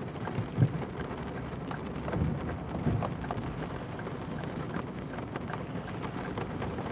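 Steady rain falling, with a close patter of drops and a sharp tap about half a second in.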